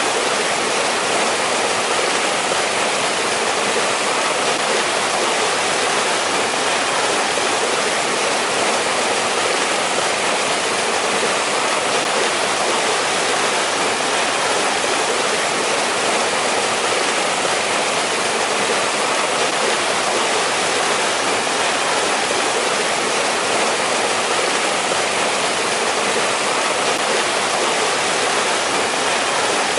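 Mountain stream rushing over rocks, a steady, even roar of flowing water with no pauses or changes.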